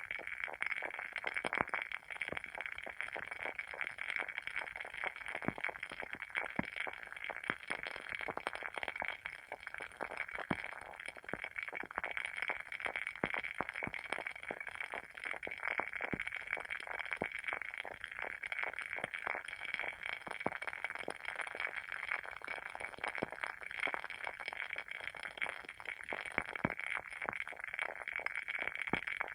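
Wooden wick of a WoodWick candle burning, with continuous dense, irregular crackling.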